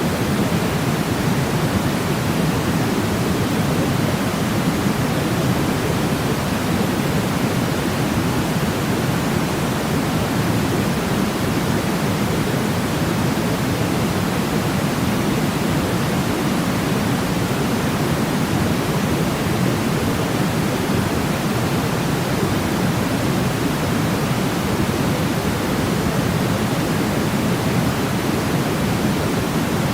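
Steady, unchanging white-noise sleep sound, heaviest in the low range with a softer hiss above.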